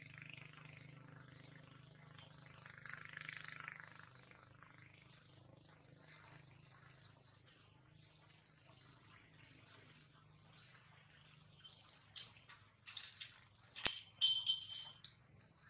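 A bird calling over and over, a short high chirp a little more than once a second, growing louder and sharper near the end, with one sharp click among them.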